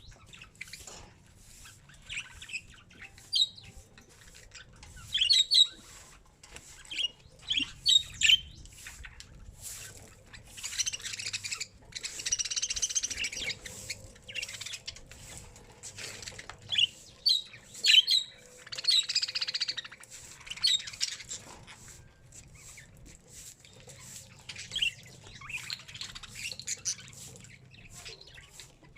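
A bird calling: many short, sharp chirps and squawks, broken by two longer harsh, scratchy chattering calls, one lasting a few seconds about a third of the way in and a shorter one past the middle.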